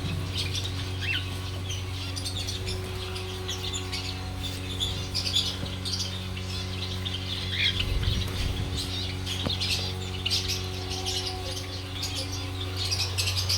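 Many small cage birds chirping and squawking at once in a dense, unbroken chatter, over a steady low hum.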